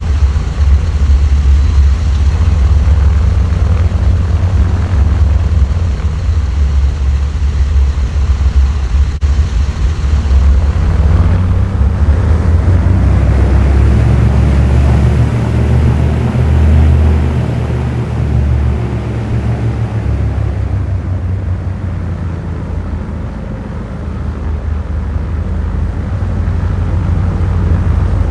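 B-29 bomber's four radial piston engines running with a deep, steady propeller drone. It swells and grows brighter about halfway through, eases off, then builds again near the end.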